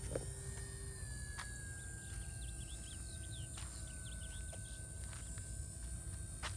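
Faint, steady whine of an RC Cessna 182's electric motor in flight, drifting slowly lower in pitch. Behind it are a constant high insect buzz and a short run of bird chirps in the middle.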